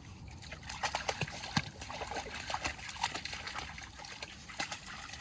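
Shallow water trickling, with many small, irregular splashes and sloshes.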